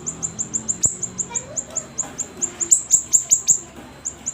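A siri-siri bird singing: a fast run of short, high chirps, each sliding down in pitch, about six or seven a second, thinning out near the end.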